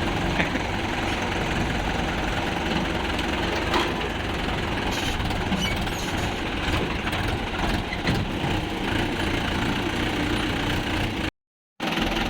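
Diesel engine of heavy farm or earth-moving machinery running steadily at idle, with a brief gap near the end.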